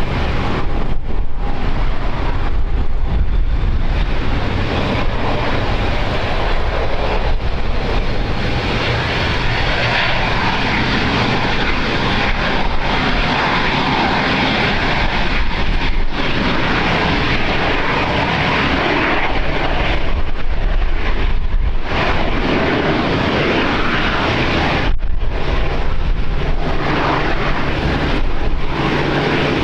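Airliner engines running loud and sustained as an aircraft moves on or over the runway, with a faint high whine in the middle and a low steady hum coming in near the end.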